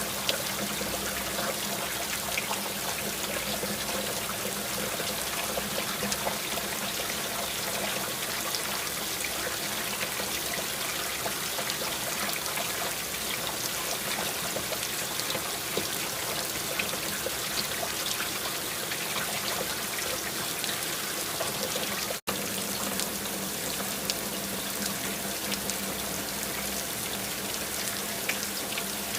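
Steady rain falling, with many small drop ticks over an even hiss of water. The sound cuts out for an instant about two-thirds of the way through.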